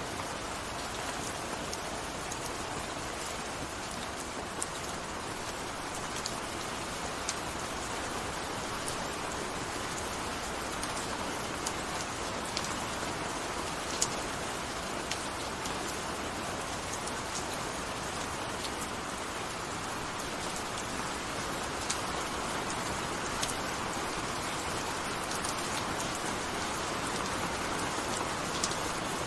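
Steady gentle rain falling, an even hiss with scattered sharp ticks of individual drops landing close by.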